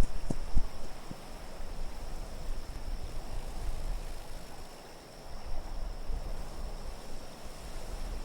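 Wind ambience: a low, gusting rumble with a soft hiss over it, rising and falling in level. A few soft low thumps come in the first second.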